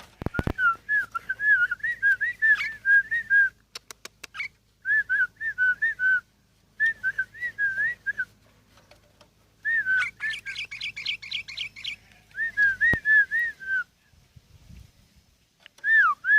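Sooty-headed bulbul (kutilang) singing: short phrases of bouncy whistled notes with brief pauses between them, and a quicker run of sharp, higher notes about ten seconds in.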